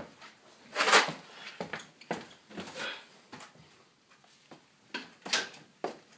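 Irregular knocks, clatters and rustles of objects being handled, the loudest about a second in.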